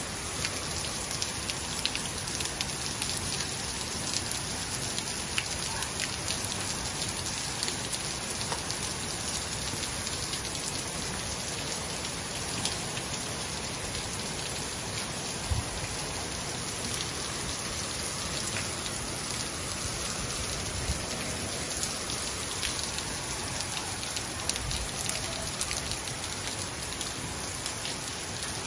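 Heavy rain pouring steadily onto block paving and a wet street: a dense, even hiss with many small, sharper drop taps scattered through it.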